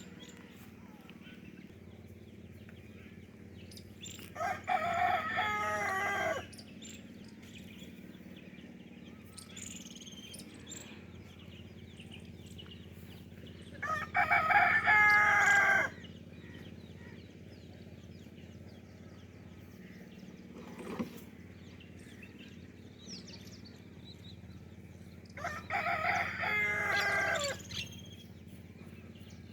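A rooster crowing three times, each crow about two seconds long, roughly ten seconds apart.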